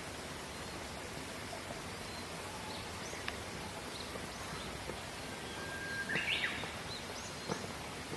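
Wild birds calling over a steady outdoor hiss: scattered short high chirps, and about six seconds in a longer song, a held whistle that breaks into a quick rising flourish, the loudest sound.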